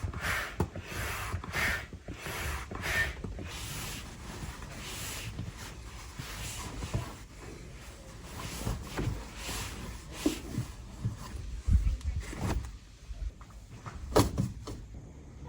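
Irregular knocks, clacks and rustling of things being handled, with a few louder thuds near the end.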